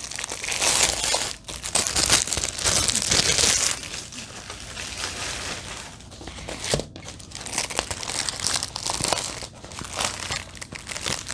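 Packaging of a diamond-painting kit being opened and handled: crinkling and tearing, loudest in the first few seconds, then softer rustling.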